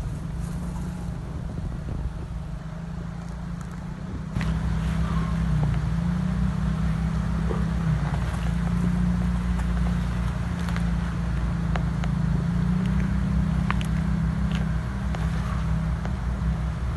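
Strong wind buffeting the microphone as a low rumble that gets louder about four seconds in, with faint clicks from digging and handling.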